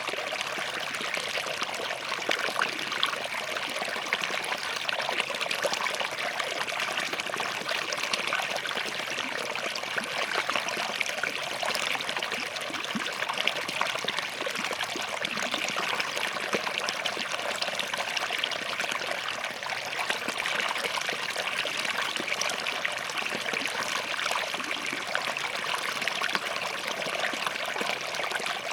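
A small forest stream flowing and trickling between rocks: a steady, even babble of running water with many fine splashes.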